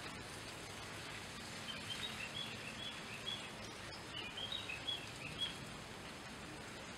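Two short runs of high chirping bird calls, about two seconds in and again about four seconds in, over a steady even hiss of outdoor background noise.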